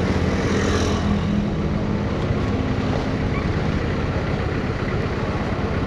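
Motorcycle engine running steadily with a low rumble, with a brief hiss near the start.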